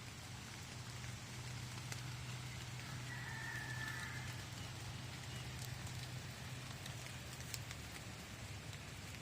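Water dripping and pattering from soaked trees in woodland after rain, a steady hiss with scattered individual drops, over a low steady hum. A short high tone sounds about three seconds in.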